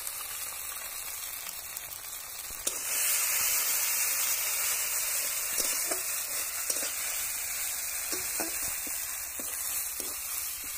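Onion masala with mustard and ginger pastes sizzling in oil in a metal kadai, the hiss getting louder about three seconds in. In the second half a flat spatula stirs it, with a few short scrapes and taps against the pan.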